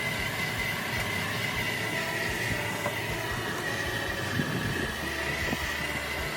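Machinery running steadily, with a steady high whine over a low hum.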